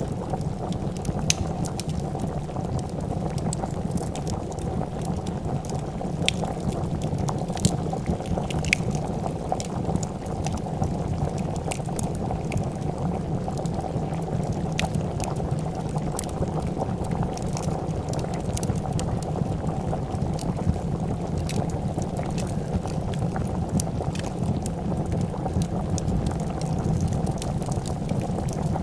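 A pot of soup boiling at a steady, continuous bubble, with a wood fire crackling over it in scattered sharp pops.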